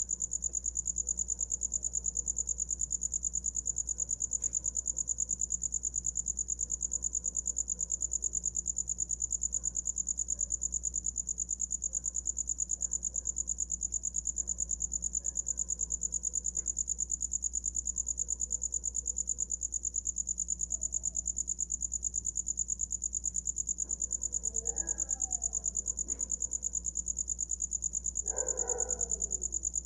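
A cricket chirping in one steady, rapid high trill. Near the end, a few faint short calls sound in the background.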